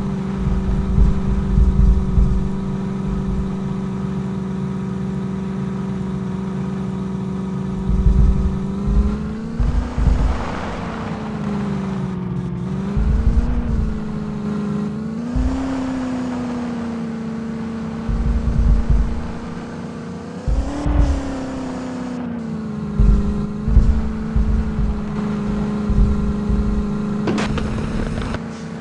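Tractor engine running steadily at speed. Its pitch dips and rises a few times in the middle as the revs drop and pick up again, with intermittent low thumps and a brief hiss near the end.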